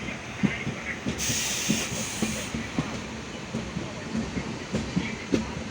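Indian Railways train carriage running on the line: a steady rumble with irregular clatter of wheels over rail joints. A hiss rises over it for about a second, starting about a second in.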